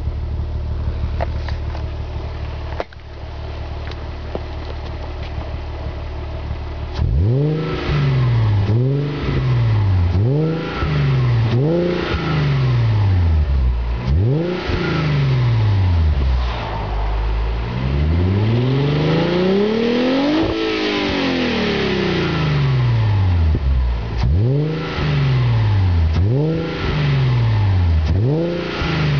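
Audi A4 3.0 quattro's V6 running through a Friedrich Motorsport cat-back sports exhaust: idling steadily, then revved in a string of short sharp blips. About two-thirds through comes one slower rev that climbs and falls back, and then more quick blips near the end.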